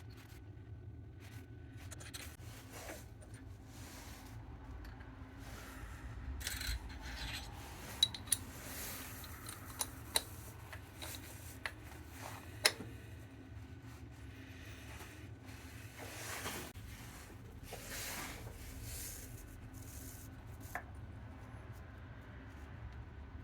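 Small metal parts being handled and set up on a workshop press: soft rubbing and scraping, with a few sharp metallic clicks in the middle, over a steady low hum.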